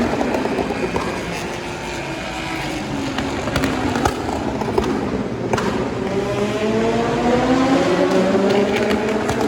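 Race car engines passing at speed, with a few sharp exhaust backfire cracks about four to six seconds in. After that a car's engine note rises steadily as it accelerates.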